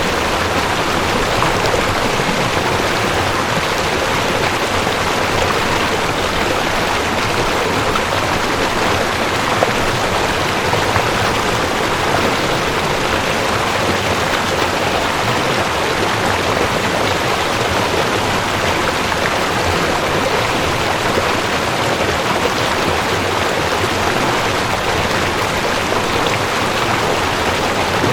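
Mountain stream rushing over rocks: a steady, even rushing of fast water.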